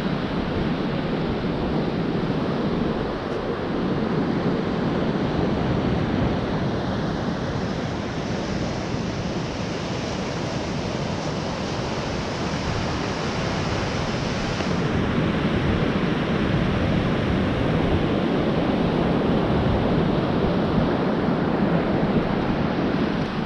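Steady rush of ocean surf breaking on a beach, with wind on the microphone adding a low rumble.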